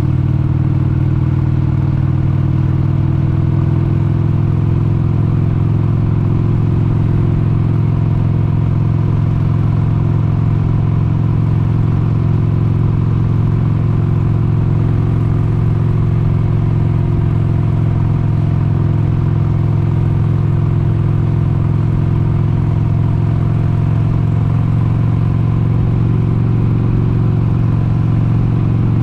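Harley-Davidson XLH883 Sportster's air-cooled 883 cc Evolution V-twin running at a steady cruising speed, heard from on the bike.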